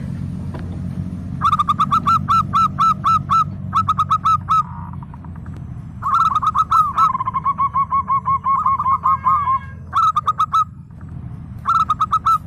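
Local zebra dove (perkutut) singing: several bursts of quick, evenly repeated cooing notes, about six a second, with a long run of song in the middle, over a steady low rumble.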